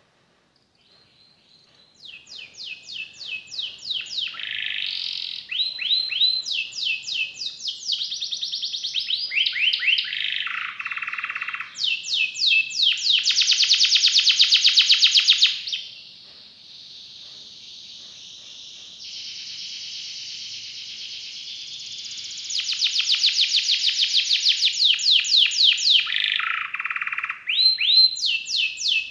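Domestic canary singing, starting about two seconds in: fast runs of repeated notes and trills, with a softer, unbroken rolling trill in the middle before the quick note runs return.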